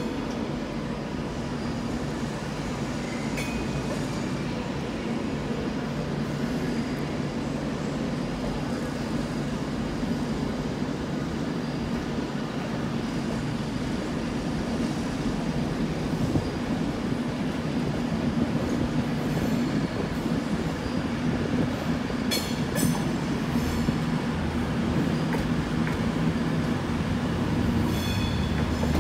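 A train in a station, a steady low rumble and hum, with brief high wheel or brake squeals about two-thirds of the way in and again near the end.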